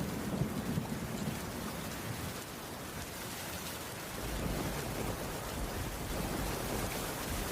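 Heavy rain falling steadily, with low rolling thunder rumbling at the start and again from about halfway.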